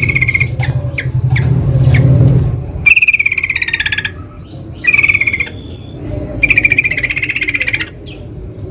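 Yellow-vented bulbuls singing: loud, bubbling, chattering phrases repeated every second or two. A low rumble sits under the first couple of seconds.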